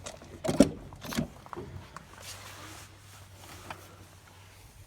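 A few knocks and clicks of someone getting into a pickup's cab to switch on the bumper lights. The loudest knock comes about half a second in, then smaller clicks follow over the next second.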